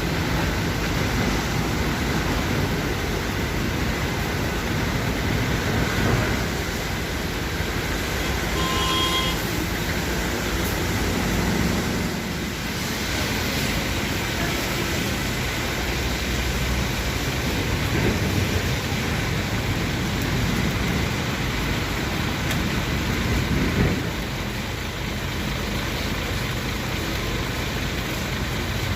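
Steady motor-vehicle and road noise, with a brief high beep about nine seconds in.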